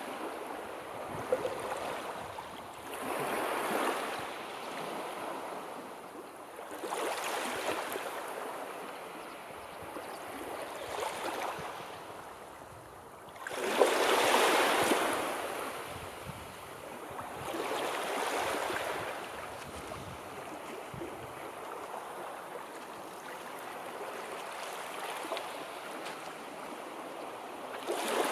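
Sea waves washing in, a rushing noise that swells and ebbs every three to four seconds, with the loudest wave breaking suddenly about halfway through.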